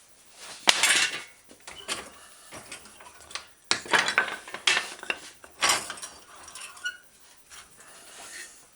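Metal hand tools clinking and rattling as they are picked up and shifted about, in a few short bursts.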